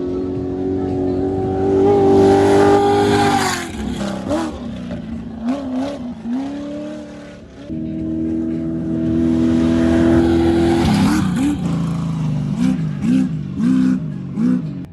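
Two off-road race vehicles passing one after the other at high revs, each engine's note falling in pitch as it goes by. After each pass the engine pitch rises and falls in quick throttle blips, several in a row near the end.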